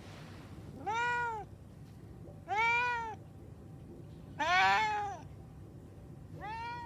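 A cat meowing four times, about a second and a half apart, each meow rising and then falling in pitch. The third meow is the loudest, and the last comes near the end.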